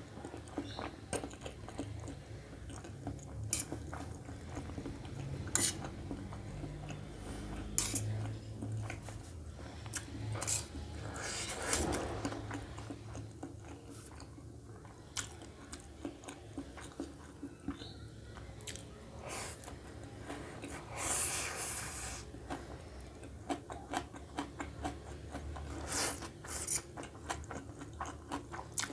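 Close-miked eating sounds of a person eating chow mein noodles: wet chewing and biting, with a couple of longer slurps of noodles, one near the middle and one about two-thirds through. Short clicks of a fork against a steel plate run throughout.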